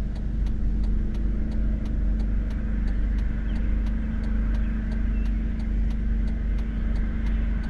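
Steady road and engine noise inside a moving car's cabin, a low rumble with a constant hum. A faint, even ticking runs through it at about three ticks a second.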